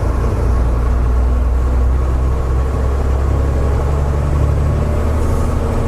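Truck engine and road noise heard from inside the moving cab: a loud, steady low drone, deepening slightly for a couple of seconds in the middle.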